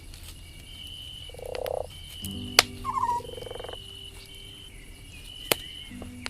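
Campfire crackling, with two sharp pops about two and a half and five and a half seconds in. Between them come two short, pulsed croaks from a frog, about one and a half and three seconds in, over a faint chorus of repeated high chirps.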